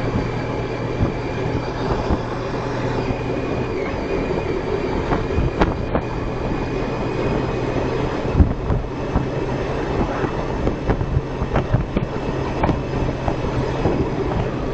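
Honda ST1300's V4 engine running steadily on the move, under wind and road noise with scattered short knocks. The engine's low hum shifts briefly about four seconds in and then settles again.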